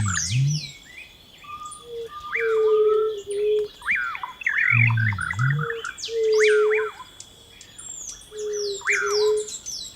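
Many birds chirping and calling in overlapping quick sweeping notes, over a steady high tone and a low, even pattern that repeats about every five seconds.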